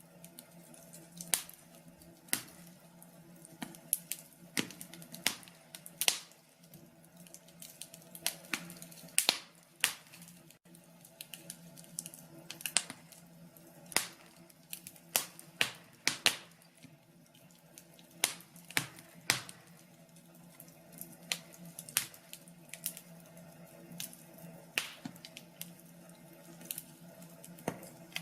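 Wood fire crackling in a fireplace: irregular sharp pops and snaps, roughly one or two a second, over a faint low steady hum.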